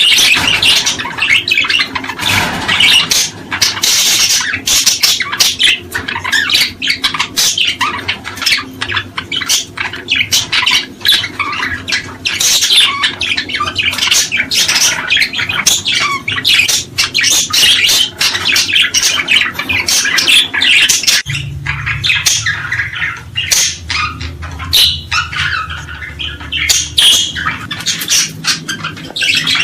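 A flock of small cage birds chattering and squawking, with dense, rapid, overlapping chirps and no pause. A steady low hum joins about two-thirds of the way through.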